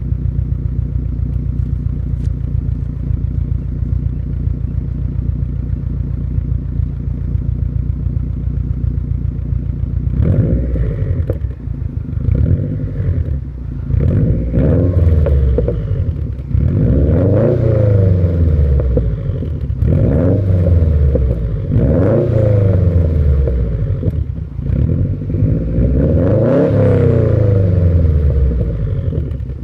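Subaru Impreza STI's turbocharged boxer engine through an aftermarket Vortex exhaust and centre section, idling steadily, then blipped up and down in repeated free revs, about one every two seconds, from about a third of the way in.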